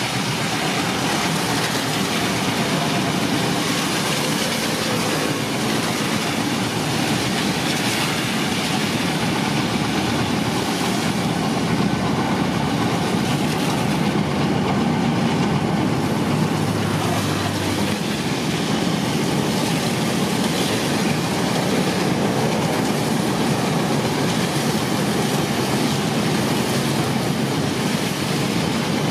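Train running on the rails, a steady rush of wheel and track noise that holds even throughout.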